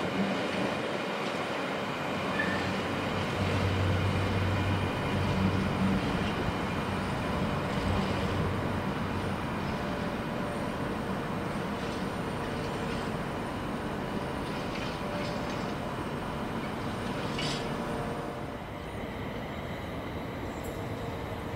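A train running through the station: a steady rumble of wheels on rails with several steady humming tones from its traction equipment, easing off slightly near the end.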